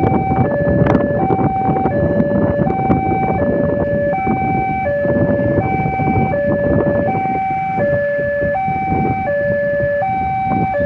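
Railway level-crossing warning alarm sounding a steady two-tone high-low signal, about one pair of tones a second, over the noise of busy road traffic waiting at the crossing.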